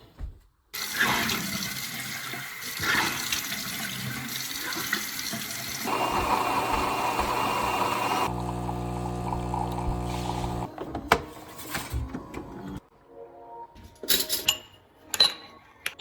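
Water rushing loudly for several seconds, then a steady machine hum for about two seconds, followed by scattered knocks and clinks.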